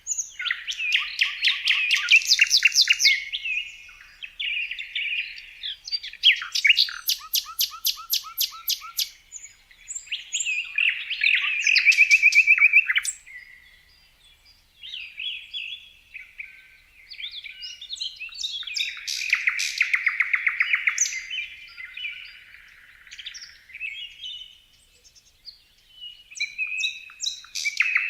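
Songbirds singing, phrase after phrase of quick trills and chirps, with a short lull about halfway through.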